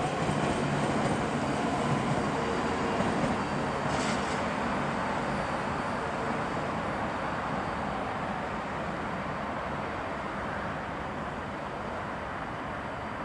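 WKD EN100 electric multiple unit running past along the track: steady wheel and motor running noise with a low hum, slowly fading as the train draws away.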